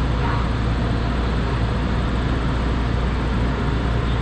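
Taiwan Railways local train running along the track, heard from aboard as a steady low rumble and rush of wheel and rail noise.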